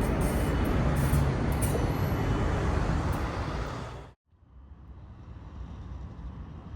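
71-931M Vityaz-M tram's running noise heard from inside the car, a steady rumble, cut off abruptly about four seconds in and followed by a much quieter steady rumble.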